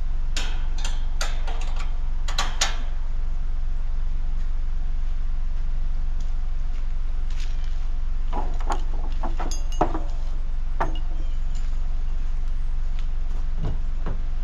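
An engine running steadily with a low rumble, with clusters of knocks and rattles from about half a second to nearly three seconds in, and again from about eight to eleven seconds in.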